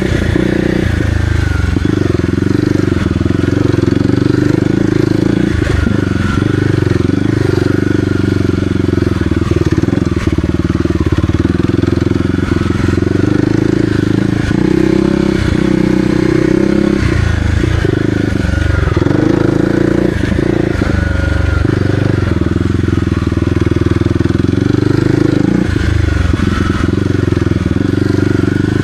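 Kawasaki KLX300R's single-cylinder four-stroke engine running as the bike is ridden, its note rising and falling with the throttle.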